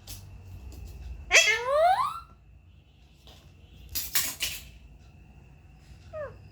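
Alexandrine parakeet calling: one loud call rising in pitch about a second and a half in, then a short burst of harsh, scratchy sound around four seconds, and a brief falling note near the end.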